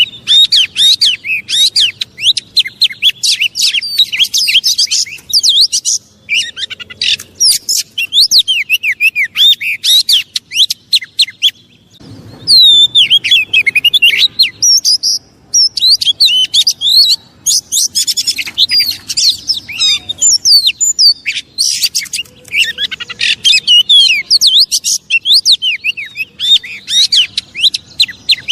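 Oriental magpie-robin (kacer) singing a fast, varied song of rapid whistles, chirps and trills in long phrases broken by brief pauses. This is the agitated song played as a lure to provoke other kacer.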